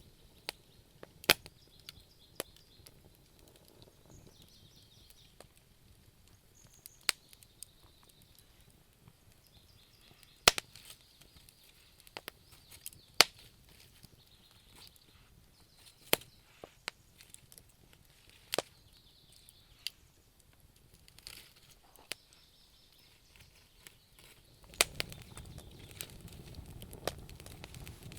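Wood fire in a fireplace crackling, with irregular sharp pops a second or two apart and faint hissing between them. A low, steady rumble of flame comes in near the end.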